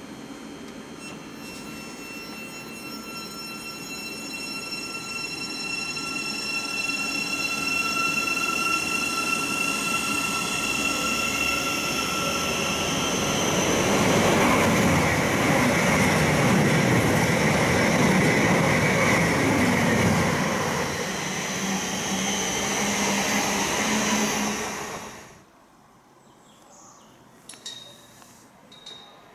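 A train approaching and going by: a steady high whine grows louder for about fourteen seconds, then gives way to loud rumbling noise as the train passes close, which cuts off suddenly near the end. A few faint clicks follow.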